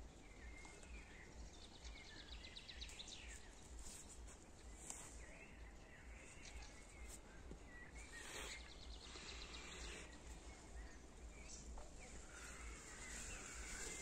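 Faint outdoor garden ambience: small birds giving scattered chirps and two rapid trills, over a low steady rumble.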